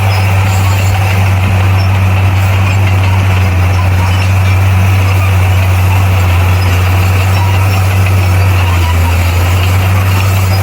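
Bulldozer's diesel engine running at a steady speed, a loud, deep, unbroken drone.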